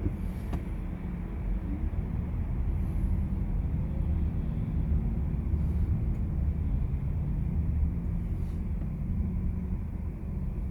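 Steady low rumble of a Volkswagen ID.4 electric car driving on the road.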